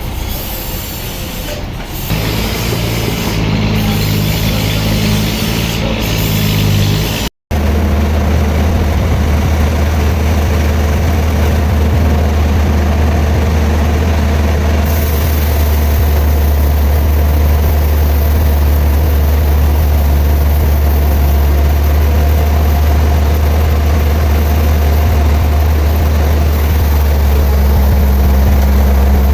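Heavy engine of sawmill or log-handling machinery running steadily at a low drone, with a sudden break about seven seconds in where the sound cuts and resumes.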